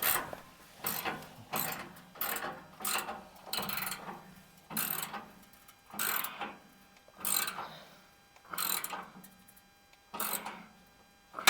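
Hand ratchet wrench tightening a bolt under a pickup truck: a series of short raspy clicking strokes at an irregular pace, roughly one every half-second to second.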